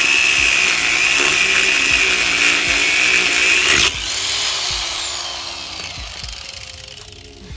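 A cutoff wheel grinding through a steel exhaust pipe with a steady high whine. About four seconds in the cutting stops abruptly, and the wheel's whine falls in pitch and fades as it spins down.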